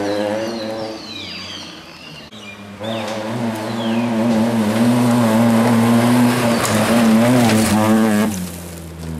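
Volkswagen Polo rally car engines revving hard through several quick shots. The loudest stretch, from about three to eight seconds in, holds high revs with the pitch wavering up and down.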